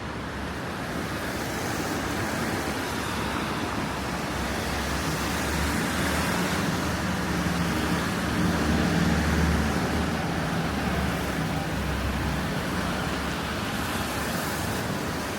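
Street traffic on a wet road: tyres hissing and a vehicle engine passing, swelling to its loudest around the middle and easing off.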